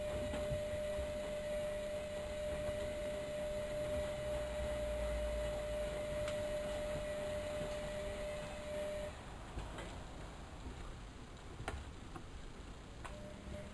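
Miele Novotronic W 2200 washing machine's drum motor whining steadily as the drum tumbles. It stops after about nine seconds, a few sharp clicks follow, and the whine starts again near the end.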